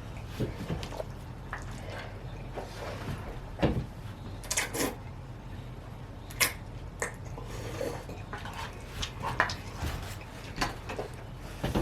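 Forks clinking and scraping against bowls as noodles are eaten, in scattered short clicks and knocks.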